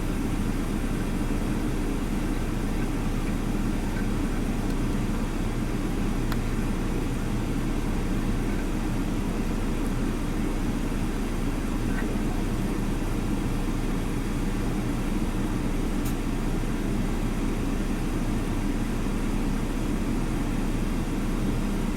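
A steady low rumble that holds at one level throughout, with a few faint ticks.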